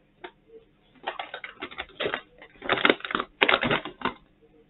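Crisp pork scratchings (seasoned crackled pork rind) crunching as they are chewed close to the microphone, in a run of irregular crackly crunches starting about a second in.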